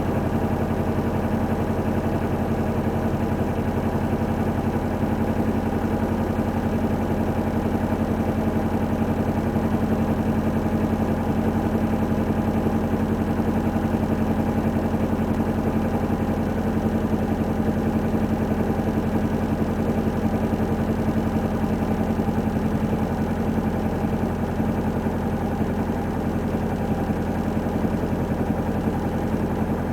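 2002 Hyundai Accent's four-cylinder engine idling steadily, still cold after a start at −12 °F.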